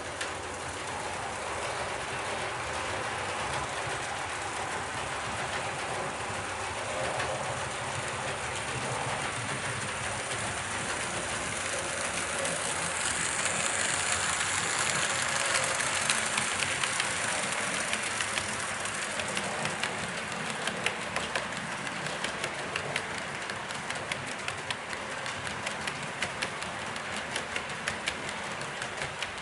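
A train running along rails, its rumble growing louder towards the middle, then a steady run of clicks over the rail joints.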